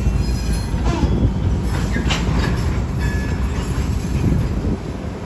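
Freight train's hopper cars rolling past close by: a steady low rumble of steel wheels on rail, with a few clacks over the rail joints and a brief thin wheel squeal about three seconds in.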